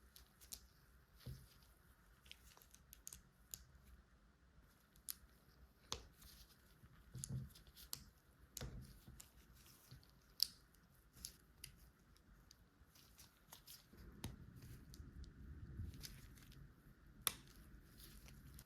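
Small plastic LEGO pieces being handled and pressed together: sparse, sharp little clicks and taps, two of them louder, with a soft rustle of handling for a couple of seconds in the latter part.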